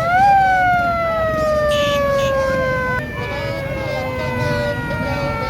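A loud horn-like tone with several overtones, sounded as two long notes of about three seconds each. Each note jumps in, rises briefly, then sinks slowly in pitch.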